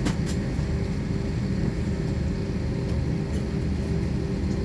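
Steady low rumble of an airliner's engines and airflow heard inside the passenger cabin, with a faint steady hum over it and a couple of short clicks right at the start.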